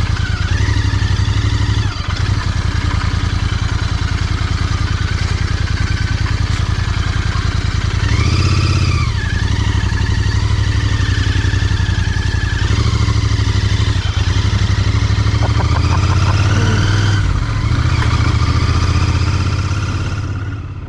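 Royal Enfield Continental GT 650's parallel-twin engine running steadily under way, its note rising and falling briefly about eight seconds in.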